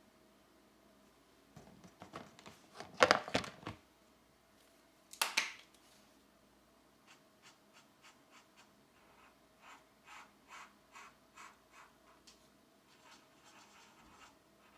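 Coloured pencil strokes on paper: short back-and-forth scratches at about two or three a second through the second half, after two louder scrapes or rustles about three and five seconds in.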